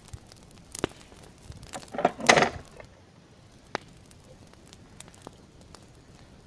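Campfire crackling with scattered sharp pops, and a louder rustling burst about two seconds in.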